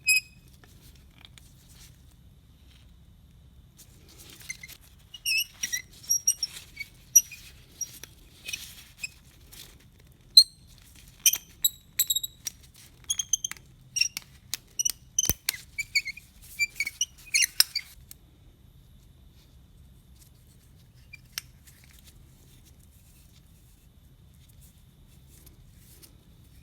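Irregular run of sharp clicks and taps from hand tools and metal engine parts being handled during an engine teardown, starting about four seconds in and stopping after about eighteen seconds, over a faint low hum.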